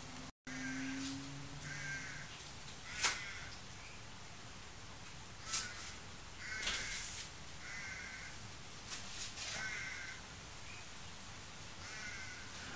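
Short bird calls, repeated several times, with a few light clicks or taps in between.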